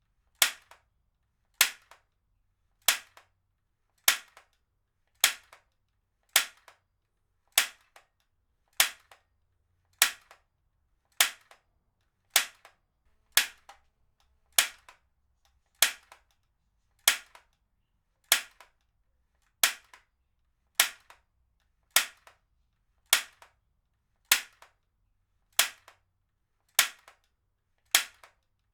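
Heavy-duty stapler fired again and again at an even pace, a sharp snap about every 1.2 seconds, each followed by a faint click.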